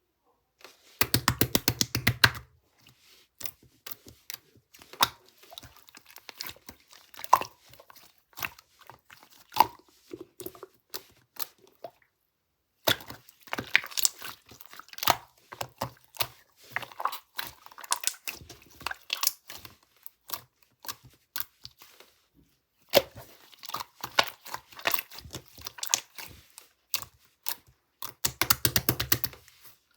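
Close-up crackling and crinkling of a material being handled: runs of quick sharp snaps and crunches, loudest in a burst about a second in and again near the end, with short quiet gaps between.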